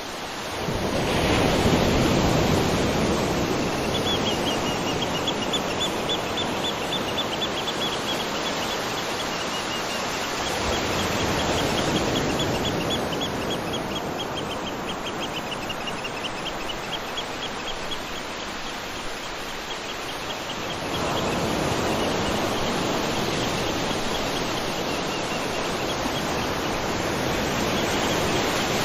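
Waterfall rushing steadily. Through the middle a high, fast series of chirps runs above the roar, and the rush grows fuller about two-thirds of the way in.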